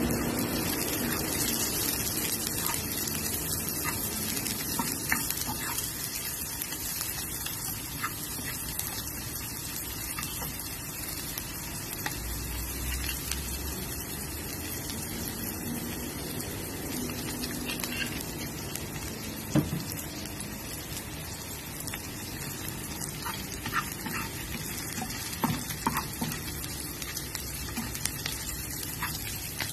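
Chopped onion and garlic sizzling in oil in a non-stick frying pan, a steady hiss, with scattered knocks and scrapes of a wooden spatula stirring them; one sharper knock a little past the middle.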